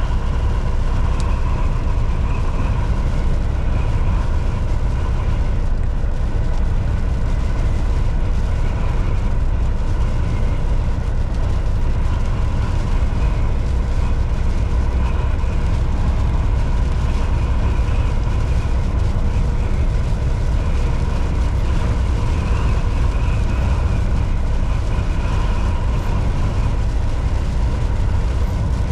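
Volvo VNL 760 semi truck cruising at highway speed: a steady, deep engine drone mixed with road noise, unchanging throughout.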